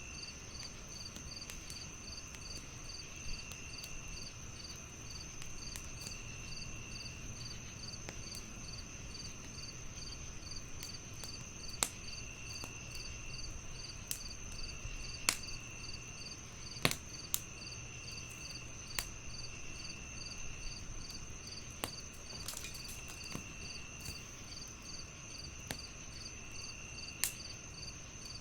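Night chorus of crickets and other insects: a steady high chirping with even pulses, and a second insect trilling in phrases about a second long. Wood fire crackling over it, with scattered sharp pops.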